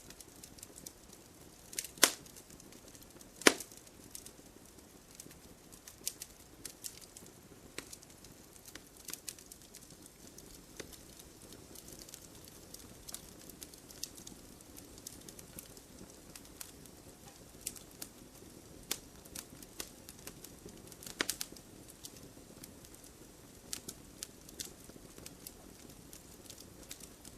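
Wood fire burning in a fireplace, crackling with scattered sharp pops over a faint steady hiss. The loudest snaps come about two seconds in, again a second and a half later, and once more about twenty-one seconds in.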